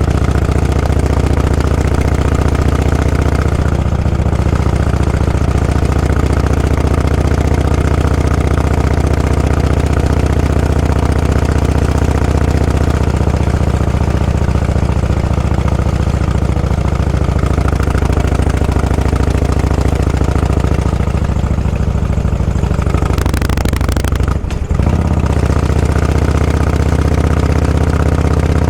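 Motorcycle engine running steadily at low revs, its pitch shifting only a little. About three-quarters of the way through there is a brief rush of noise and a momentary dip in the sound.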